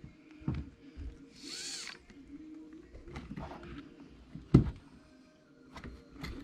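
Small clicks and knocks of tools and parts being handled during hand disassembly of an RC truck, with a short rasping sound about one and a half seconds in and the sharpest knock a little after four seconds. A faint steady hum runs underneath.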